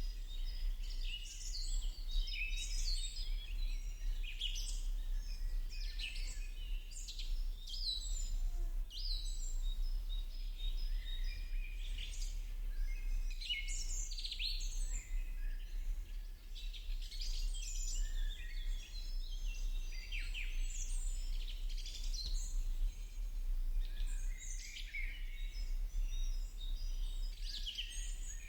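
Many small birds chirping and singing at once, a dense chorus of short overlapping calls and quick sweeps, over a steady low hum.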